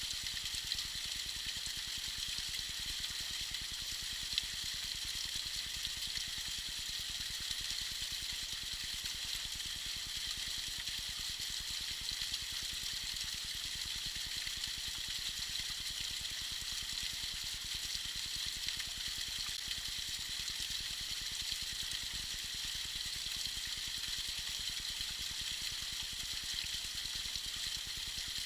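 Small icy waterfall splashing and trickling, a steady high hiss of falling water.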